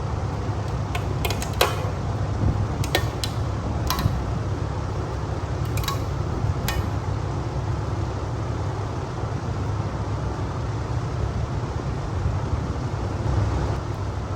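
Steady low hum with scattered light metallic clinks and clicks, most of them in the first seven seconds. These are tools and parts being handled while a V8 engine is torn down.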